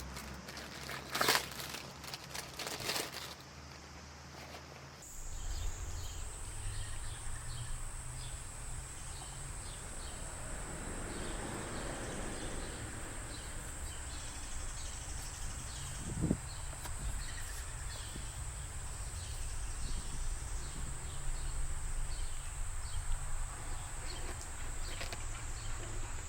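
Outdoor summer ambience: insects droning steadily at a high pitch, with faint repeated chirps over a low background rumble. A few sharp clicks sound in the first seconds, before the drone sets in about five seconds in.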